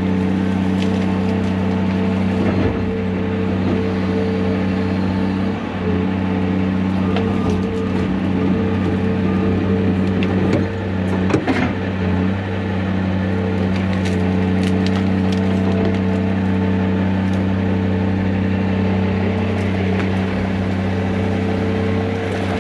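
Heavy-equipment diesel engine running steadily at a constant speed while clearing brush, with scattered cracks and snaps of wood breaking, the loudest about eleven seconds in.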